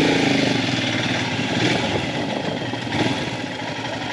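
Motorcycle engine running at low speed as the bike rolls slowly, with a steady firing beat, a little louder at the start.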